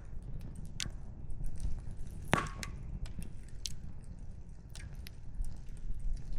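Wood fire crackling, with irregular snaps from the burning firewood over a steady low rumble; one louder pop comes about a third of the way in.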